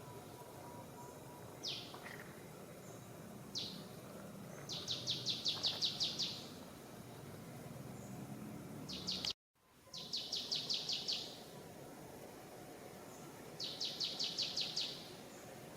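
A songbird repeating a fast, high trill of about a dozen rapid notes every few seconds, with a couple of single sharp down-slurred notes between, over a steady background hum of the forest. The sound cuts out completely for a split second about nine and a half seconds in.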